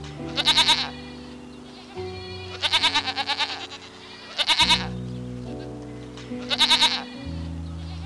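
Goat bleating four times, each a short wavering bleat about two seconds apart, over background music of sustained chords.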